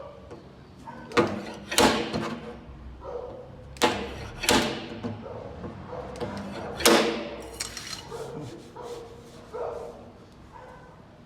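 A series of about five loud bangs or knocks, irregularly spaced a second or two apart, each with a short ringing tail.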